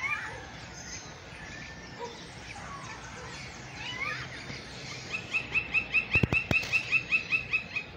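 Birds chirping at dawn with short whistled glides. About five seconds in, one bird starts a fast, even series of repeated notes, about six a second. A few sharp clicks come around six seconds in.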